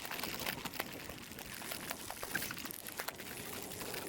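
Mountain bike rolling over a rough dirt trail, its tyres crunching and the bike rattling, with scattered sharp clicks.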